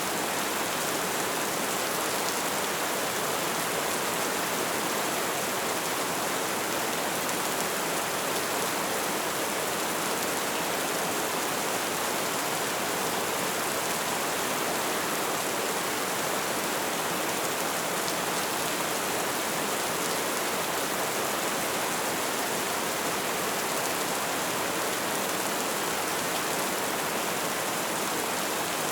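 Light rain falling, a steady even hiss of drops.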